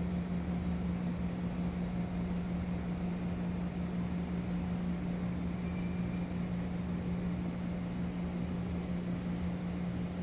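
Steady mechanical hum: a constant low drone over an even hiss.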